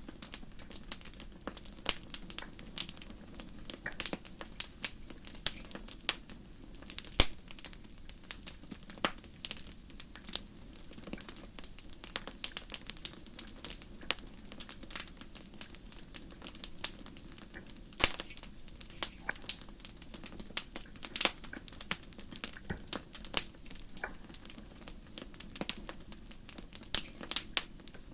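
Wood fire crackling: irregular sharp pops and snaps, a few louder ones scattered through, over a steady low hiss of burning.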